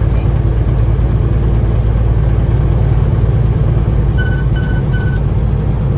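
Semi-truck cab interior while driving at highway speed: a steady, loud rumble of engine and road noise. About four seconds in, three short electronic beeps sound in quick succession.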